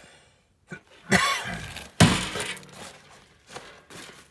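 Sheet-metal clattering from a furnace cabinet panel being handled: a sharp clank about a second in, a louder ringing clank at about two seconds, then lighter knocks.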